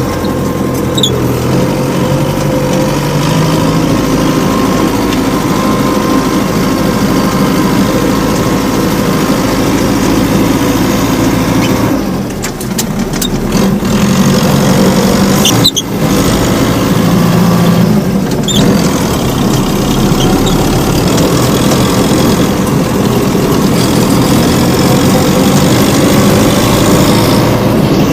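Homemade minitractor's engine running steadily while the tractor drives, with the engine sound dipping briefly a couple of times near the middle.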